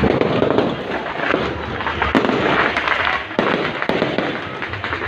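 Fireworks going off in rapid succession: a dense crackling, with several sharper bangs standing out about two, three and a half and four seconds in.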